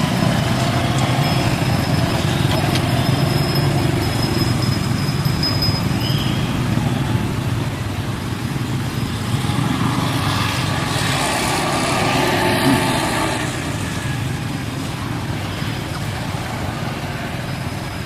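Steady motor-vehicle noise, like traffic going past. One vehicle swells louder from about ten to thirteen seconds in.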